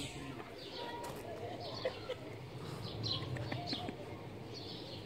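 Birds chirping in short high calls at irregular intervals of about half a second, over a faint low murmur.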